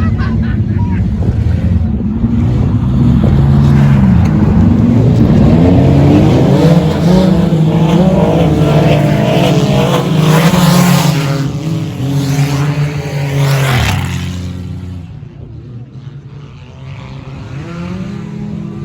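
Race cars going round the track, their engines revving up and down as they pass close by, loudest through the middle; the sound falls away sharply about fourteen seconds in, and another car's engine is heard coming up near the end.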